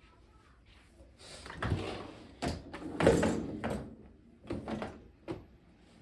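Household handling clatter: a run of sliding scrapes and several sharp knocks, like a door or drawer being moved, starting about a second in and ending with a sharp knock just past five seconds.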